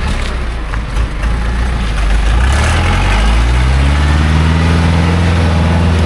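A loaded small logging truck's engine picking up speed. After a rough first second or two with a few knocks, its note rises over about a second and a half and then holds steady at the higher speed.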